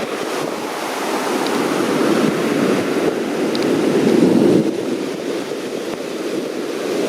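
Ocean surf breaking and washing ashore, with wind buffeting the microphone; the wash grows louder to a peak about four seconds in.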